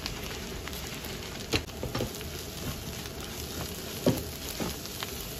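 Chopped chilli, shallot and dried-shrimp sambal frying in a non-stick pan with a steady sizzle. A plastic spatula knocks and scrapes against the pan a few times as the mixture is stirred after the salt goes in.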